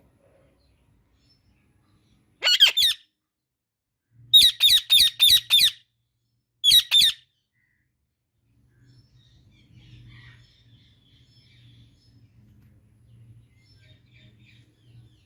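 Indian ringneck parakeet calling in short, shrill squawks: a group of about three, then a quick run of six, then two more, after which only a faint low hum remains.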